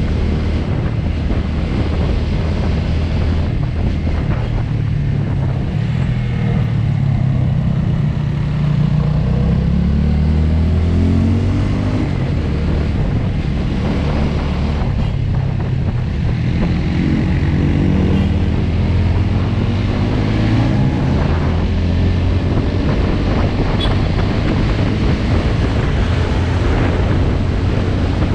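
TVS Apache RTR motorcycle engine running under way, its pitch climbing twice as the bike accelerates through the gears, with wind buffeting the microphone.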